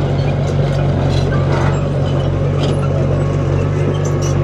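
Heavy earthmoving machine's diesel engine running steadily under load, with light metallic clinks and rattles over it.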